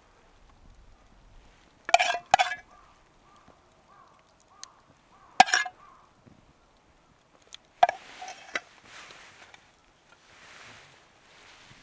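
Metal camp cookware clinking: a few sharp clinks with a short ring, a pair about two seconds in, another about five and a half seconds in and one near eight seconds.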